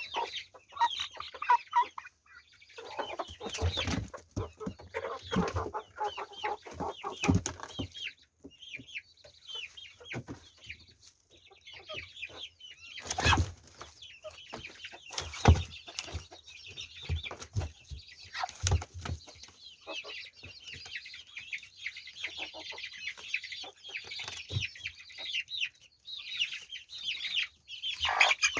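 Domestic chickens clucking and chattering, with several sharp knocks mixed in.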